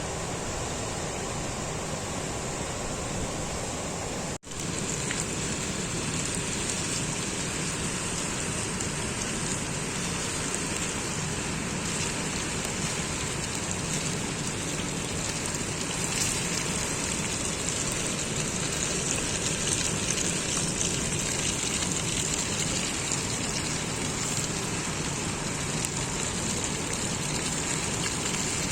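Hot oil sizzling and crackling around a whole chicken deep-frying: a dense, steady hiss with scattered small pops. It cuts out for a moment about four seconds in.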